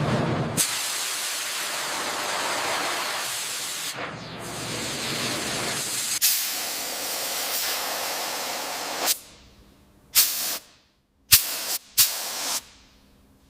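A steady spraying hiss runs for about nine seconds with a few abrupt cuts, then stops. Near the end come three short separate bursts of hiss.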